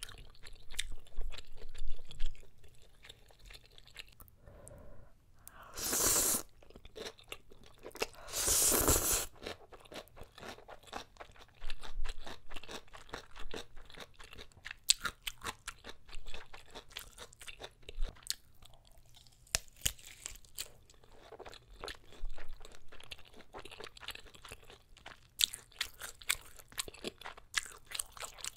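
Close-miked eating: a person chewing a mouthful of spicy jjapaguri black bean noodles, with many small wet, crunchy chewing clicks. Two longer, louder stretches come about six and nine seconds in.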